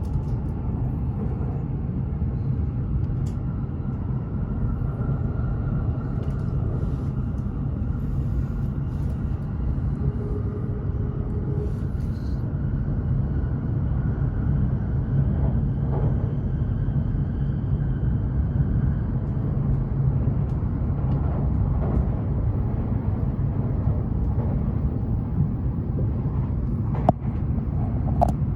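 Steady low rumble of a Hokuriku Shinkansen Kagayaki train running at speed, heard from on board. A few sharp clicks come near the end.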